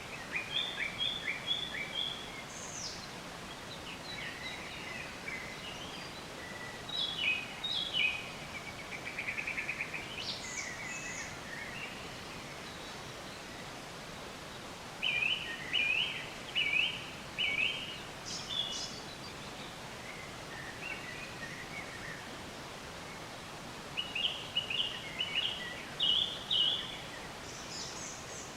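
Songbirds chirping and singing in short phrases over a steady background hiss. There is a quick trill about nine seconds in, and twice a run of four clear, repeated chirps, the first about fifteen seconds in and the second near the end.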